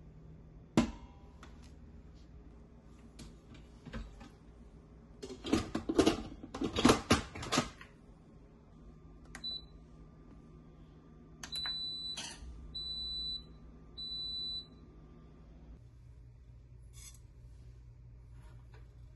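Kitchen clicks and a burst of clattering, then a kitchen appliance beeping: one short and two longer high beeps, over a steady hum that cuts off a few seconds after.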